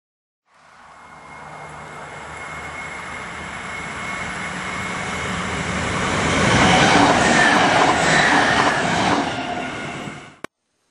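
Diesel railcar set, a CountryLink Xplorer, approaching and passing on the main line: engine hum and wheel-on-rail noise grow steadily louder, loudest about seven to nine seconds in, then fade and cut off suddenly near the end.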